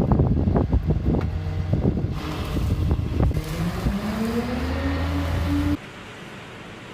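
Car engine running amid wind buffeting and repeated knocks, the engine pitch rising for a couple of seconds. It cuts off suddenly near the end, leaving a quieter wind hiss.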